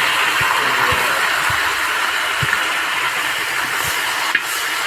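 Hot oil in a frying pan sizzling steadily with onions, chillies and freshly added curry leaves, with a few faint knocks.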